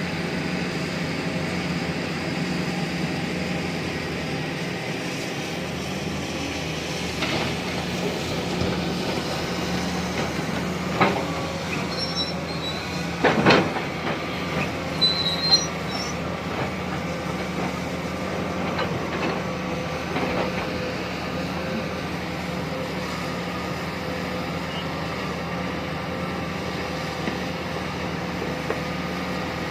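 Tata Hitachi Zaxis 870 LCH excavator's diesel engine running steadily under working load, heard from the operator's cab. A few loud knocks and brief high squeaks come in the middle.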